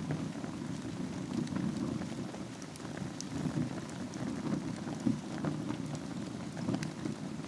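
Wood fire burning in a fireplace: a steady low rumble of the flames with scattered small crackles and pops of the burning wood.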